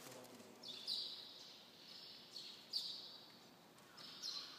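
Faint, high bird calls repeating every second or two, each a quick downward slide into a short held note.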